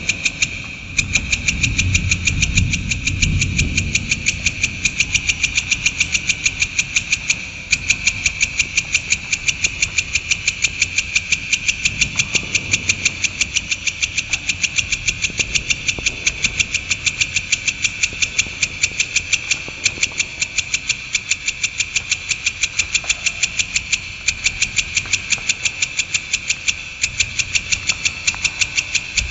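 Shrike (cendet, Lanius cristatus) giving a long, unbroken run of rapid, evenly repeated sharp chattering notes, about four a second. A low rumble sits under the first few seconds.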